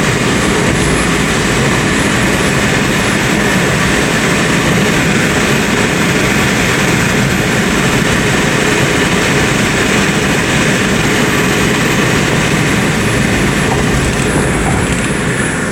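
A car on the move: steady, loud road and wind noise.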